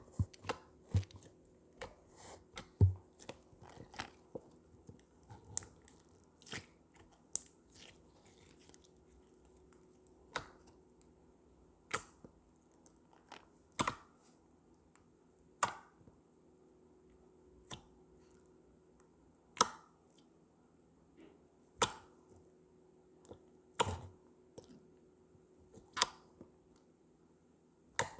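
Slime being handled for ASMR, giving sharp popping clicks: irregular clusters in the first several seconds, then single pops about every two seconds.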